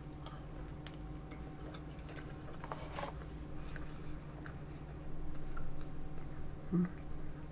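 Close-miked soft chewing of a mouthful of tiramisu: faint, scattered wet clicks from the mouth, a little busier about five seconds in, over a steady low electrical hum.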